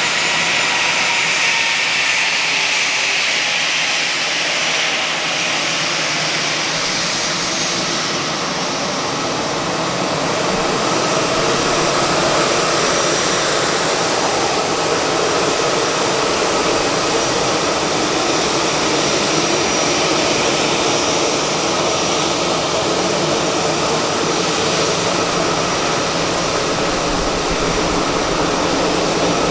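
Airbus A320-214's CFM56-5B turbofan engines running, a loud, steady jet noise that shifts lower in pitch after about ten seconds.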